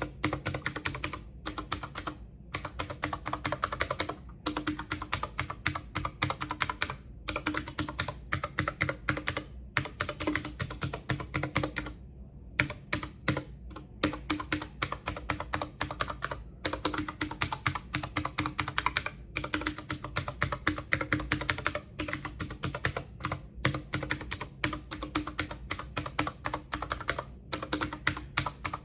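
Rapid typing on a computer keyboard: a dense run of key clicks with a few short pauses, the longest about twelve seconds in.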